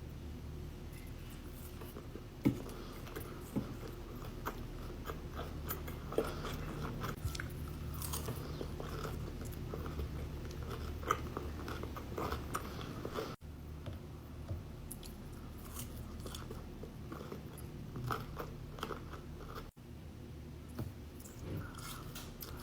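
Close-up eating sounds: someone biting and chewing crunchy food with many sharp crackles, over a steady low hum. The sound breaks off abruptly twice.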